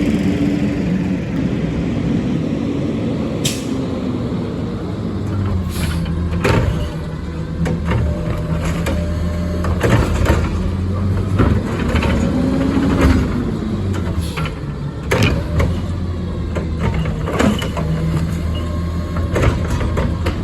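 Peterbilt 520 garbage truck's diesel engine running and revving up and down a few times, with repeated sharp clanks and knocks from the truck's Curotto Can cart-handling equipment.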